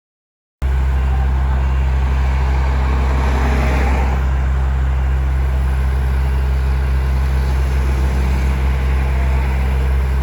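Komatsu D21P bulldozer's diesel engine running steadily at constant speed, with a short patch of added rattling noise around the middle.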